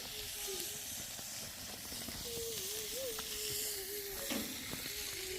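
Steady hiss of food sizzling in a frying pan, with a faint, wavering tone underneath and a light knock about four seconds in.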